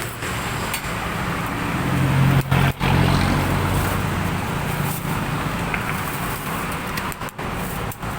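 Road traffic: a motor vehicle's engine hum that swells about two seconds in and then eases back over steady traffic noise.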